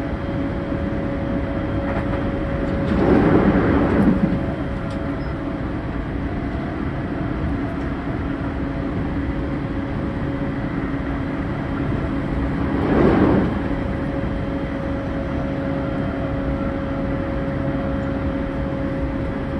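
Interior running sound of a JR E231-0 series commuter train's motor car at speed: a steady rail rumble with even motor tones underneath. The rushing noise swells briefly twice, about three seconds in and again about thirteen seconds in.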